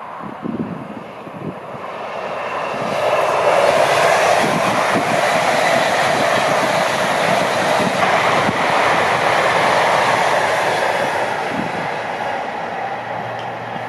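LNER Class 801 Azuma electric express train passing at speed: a rushing noise of wheels on rail and air that builds over a couple of seconds, stays loud for about seven seconds, then fades away.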